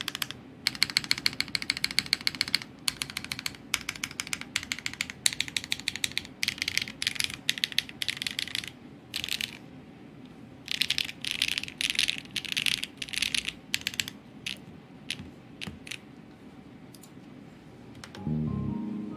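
Typing on a Paper80 mechanical keyboard with HMX Macchiato switches, a polycarbonate plate and no foam: fast runs of keystrokes broken by short pauses, thinning to scattered single key presses near the end. Music comes in about a second before the end.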